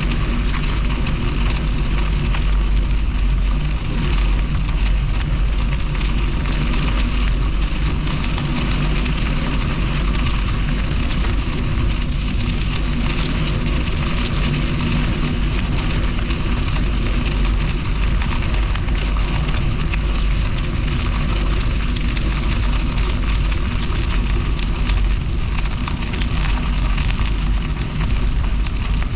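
Steady wind buffeting the microphone of a camera on a moving bicycle, mixed with the crackling rumble of the tyres rolling over the path.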